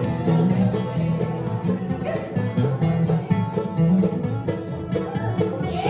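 Live bluegrass band playing an instrumental break with no singing: fast plucked strings, banjo and guitar among them, over a steady bass beat.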